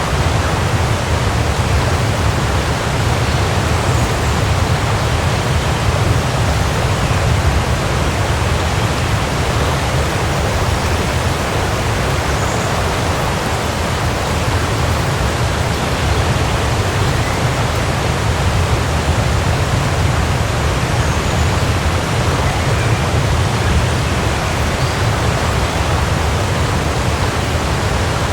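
Waterfall: a steady, unbroken rush of falling water with a deep low rumble.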